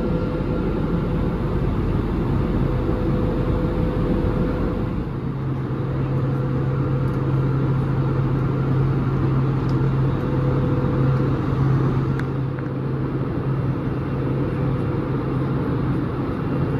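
Steady drone of an Airbus A320neo cabin in flight: engine and airflow noise with a constant hum. A stronger low hum comes in about five seconds in.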